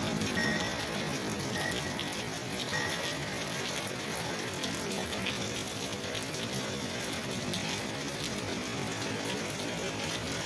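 Steady rain falling, an even hiss, with a few short high calls in the first three seconds.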